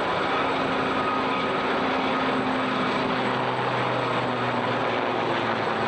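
Aircraft engine noise: a steady drone from a display aircraft, with faint held tones under it.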